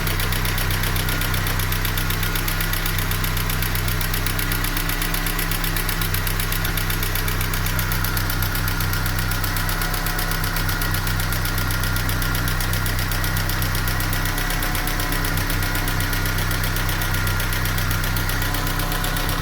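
Ford Scorpio DOHC engine idling steadily with a fast, even knock, the engine knock the owner is showing.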